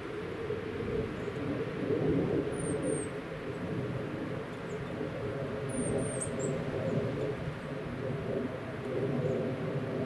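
Small garden birds giving brief, very high, thin calls in two short clusters, around three seconds in and again about six seconds in, over a steady low rumble.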